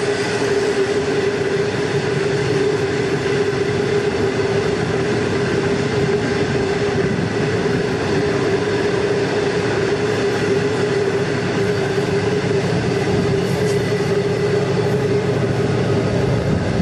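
Long freight train rolling steadily: a continuous rumble of wagon wheels on the rails, with a steady mid-pitched hum held throughout.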